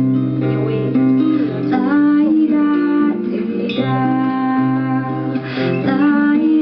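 Acoustic guitar strumming and picking chords in an instrumental passage of a pop song.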